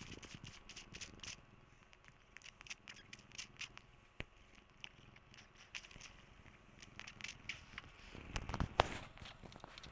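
Domestic cat purring, with many small clicking and scratching sounds over it and a louder burst of rustling near the end.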